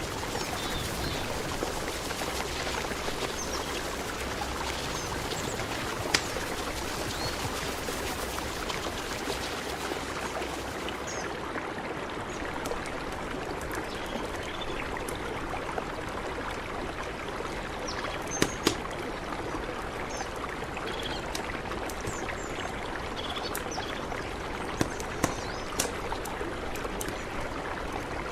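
A mountain river flowing steadily, a continuous rushing of water, with a few faint high chirps and several sharp clicks over it.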